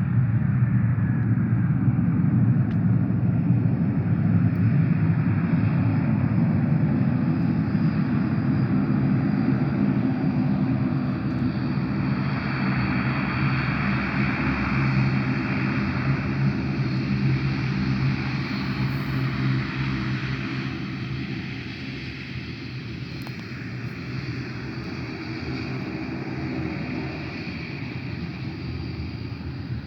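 Airliner engines running with a loud, steady rumble and a rushing hiss that swells midway, then gradually fade in the last third.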